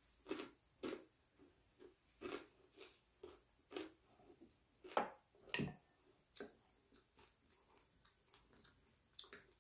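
Close-up chewing of a mouthful of fried conger eel, a string of short crisp crunches that comes thick for the first six seconds or so and then thins to a few light clicks.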